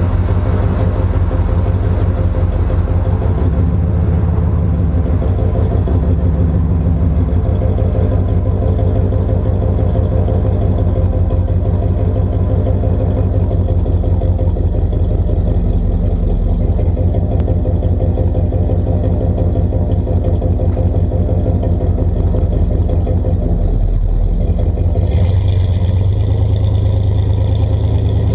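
Exhaust of a 1992 Chevrolet 3500 pickup's 5.7-litre (350) V8, with a new high-flow exhaust and no catalytic converter, running loud and steady as the truck is driven. The note shifts about 25 seconds in.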